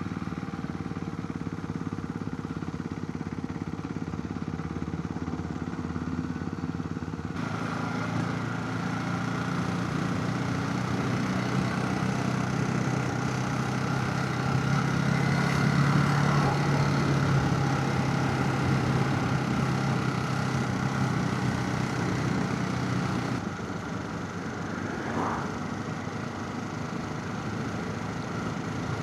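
Motorcycle engine running under way, heard from a chin-mounted helmet camera with a steady rush of wind noise. The sound jumps up abruptly about seven seconds in, swells louder through the middle, and drops back abruptly near the end.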